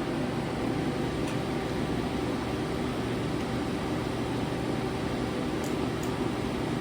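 Spindle of a Leadwell LTC-20BM CNC lathe running at a steady 2600 RPM on a test run: an even mechanical whirr with faint steady tones and no change in speed.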